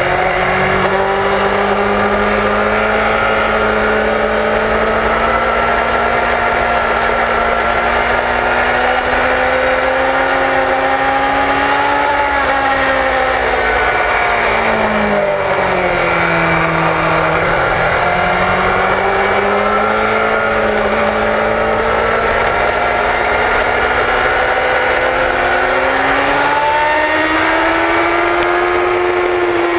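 Sport motorcycle engine at track speed, heard onboard with wind rushing over the microphone. Its pitch climbs steadily for a long stretch, drops in a few steps about halfway through as the bike slows, then climbs again, with a short dip near the end.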